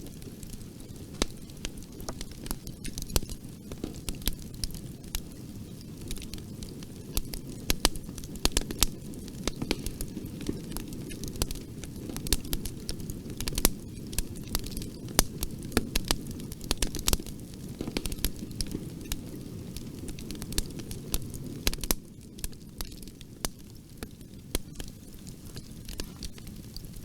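Bonfire burning, a steady low rumble of flame with frequent sharp, irregular crackles and pops of burning wood.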